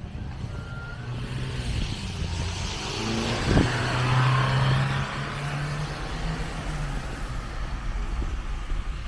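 A motor vehicle passing on the street: engine and tyre noise swell to a peak about four seconds in, then ease off while a low engine hum carries on.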